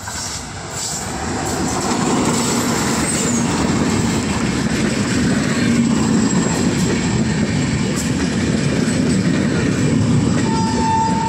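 A passenger train of LHB coaches hauled by a WAP-7 electric locomotive passes close by. The rumble and rattle of its wheels on the rails grows quickly over the first two seconds and then holds steady. Near the end a steady train horn starts sounding.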